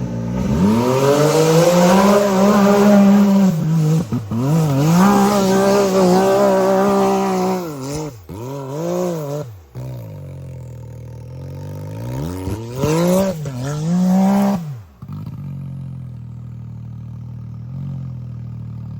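Side-by-side UTV engine revving hard in repeated bursts under load on a rock climb, its pitch surging up and falling back several times. It drops to a steady idle about fifteen seconds in.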